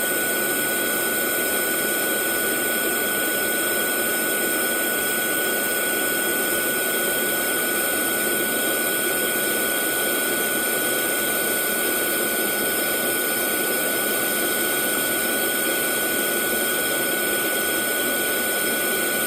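Hair dryer running steadily: an even rush of blown air with a thin, steady whine, unchanging throughout.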